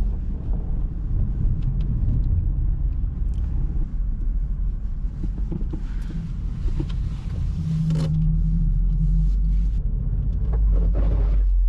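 Subaru WRX's turbocharged flat-four engine running, with tyres rolling over a snow-covered road: a steady low rumble with scattered faint clicks, the engine note steadying and the rumble growing louder from about the middle on.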